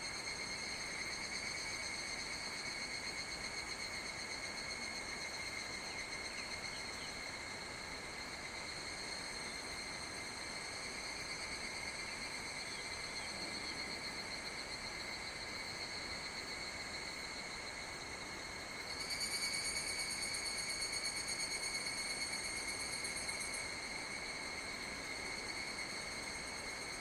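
Summer insect chorus: a steady, high, pulsing trill that swells louder from about two-thirds of the way in for a few seconds, then settles back.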